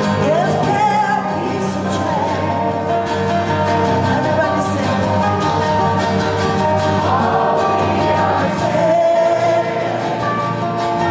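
Live music: a woman singing a held, sliding melody over guitar accompaniment.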